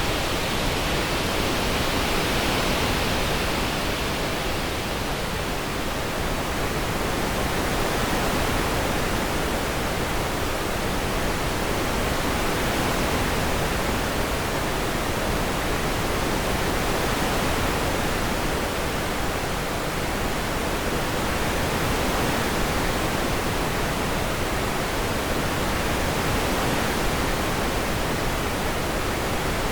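Synthesised orange noise: a steady, even, wind-like hiss whose upper tones slowly swell and fade, panned to circle the head.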